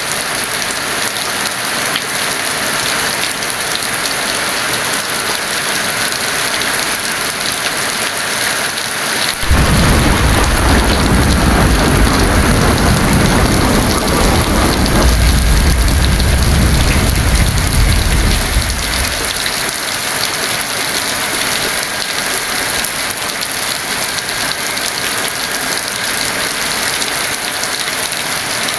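Heavy rain falling steadily, with a roll of thunder that breaks in suddenly about a third of the way through, rumbles deep for around ten seconds and dies away.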